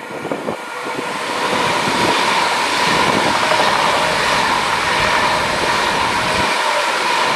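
Electric passenger train passing at speed close below, a rush of wheel-on-rail and air noise that swells over the first second or two and then holds steady and loud, with a steady high tone running through it.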